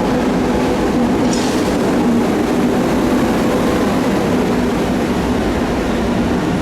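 An electric passenger train running through the station: a loud, steady rumble with a low hum. There is a brief high-pitched sound a little over a second in.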